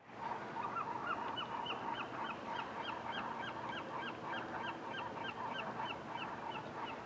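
A bird calling over and over in a rapid, even series of short honk-like notes, about three a second, over a steady background hum.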